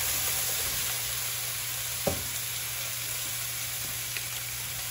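Food frying in a pan on the stovetop: a steady sizzle, with a single sharp knock about two seconds in.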